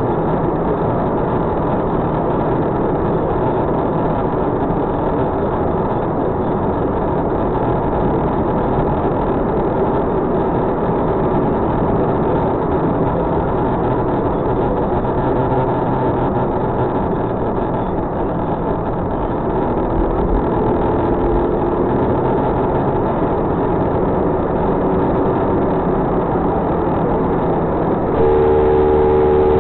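Steady car engine and road noise inside a moving car, picked up by a dashcam's low-quality microphone. A car horn starts sounding near the end.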